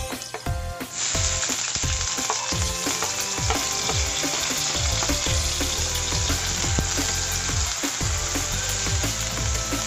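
Garlic and chopped onion sizzling in hot oil in a frying pan, stirred with a spatula; the sizzle gets much stronger about a second in and stays steady.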